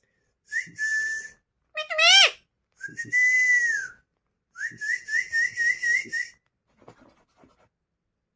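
A series of whistles around one pitch: short steady whistles, a quick rising whistle about two seconds in, a long whistle about three seconds in, and a warbling run of whistles about five seconds in.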